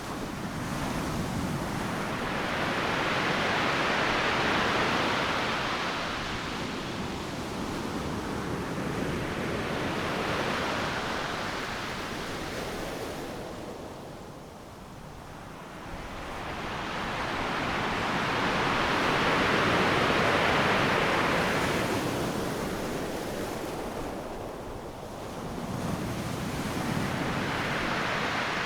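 Ocean surf breaking on a beach: waves crash and wash in slow surges every several seconds, swelling and fading, with a brief lull about halfway through.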